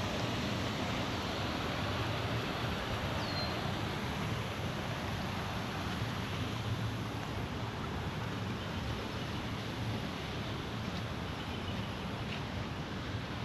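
Water rushing over a small dam: a steady, even rush. A single brief high chirp about three seconds in.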